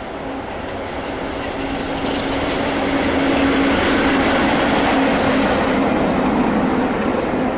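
A train passing close by, its noise building to a peak partway through over a steady hum, with wheels clicking over rail joints.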